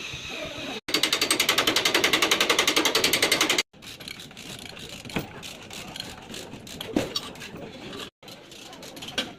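A power tool hammering rapidly, about fourteen strokes a second, for nearly three seconds, then stopping abruptly. After it come quieter, scattered knocks and taps on metal.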